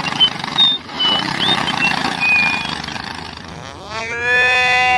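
A small mini-tractor engine running, with short high bird chirps over it. About four seconds in, a cow gives one long moo that rises and then holds.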